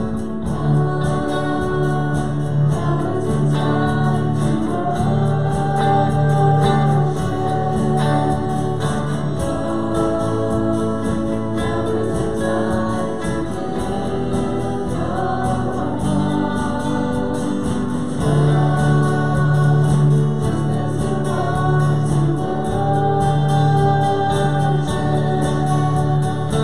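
Congregation singing a hymn together with instrumental accompaniment, guitar among it.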